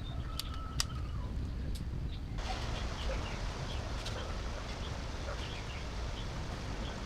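Birds calling over a steady low rumble, with a few sharp clicks early on. The background noise changes abruptly about two and a half seconds in.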